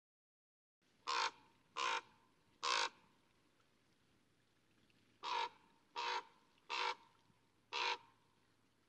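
A bird cawing, seven short calls: three in quick succession starting about a second in, then after a pause of about two seconds, four more.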